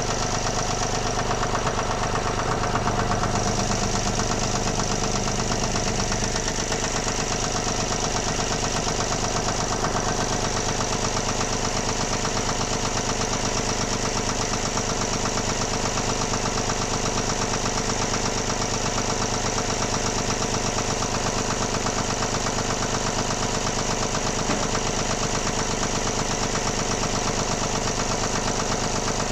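Volvo D17C three-cylinder engine running steadily at idle, with an even rhythmic clatter, just restarted after an emergency valve spring replacement done with the cylinder head left on.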